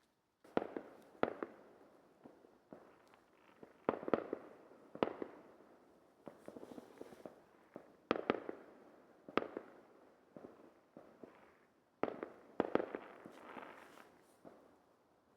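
Fireworks going off: a string of sharp bangs at irregular intervals, some in quick pairs, each trailing off in an echo, with fainter crackling between them.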